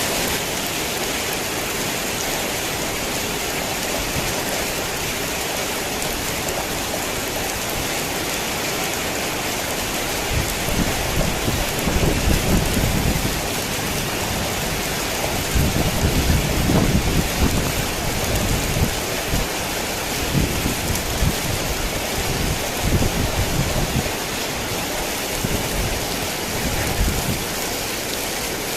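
Heavy rain pouring steadily, with low rumbles of thunder that swell and fade several times through the middle.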